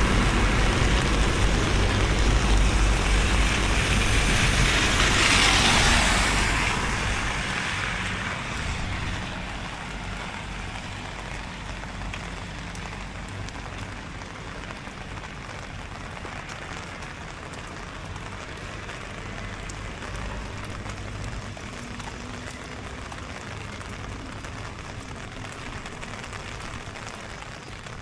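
A motor vehicle passes on a rain-wet street: an engine rumble with tyres hissing through water, loudest over the first six seconds, then fading away by about eight seconds in. After that comes a steady hiss of rain.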